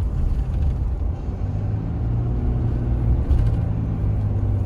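Heard inside the cab of a 2014 Ram 3500 dually pickup on the move: a steady low engine and road rumble with a constant hum.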